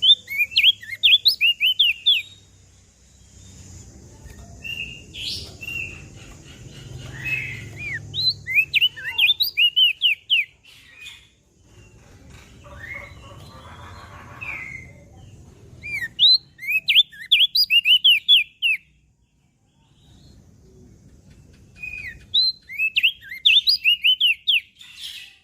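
Opior jambul (crested white-eye) singing. It gives short, rapid phrases of sharp chirping notes, five phrases with pauses of a few seconds between them, over a faint low background rumble.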